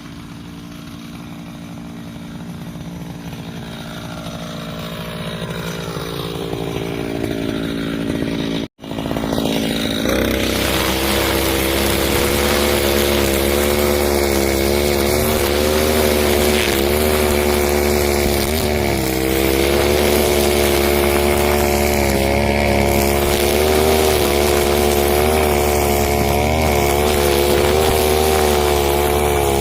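Two-stroke engine of a Husqvarna 541 brushcutter running. It grows louder over the first several seconds, cuts out briefly about nine seconds in, then runs steadily at high revs with small dips in pitch now and then.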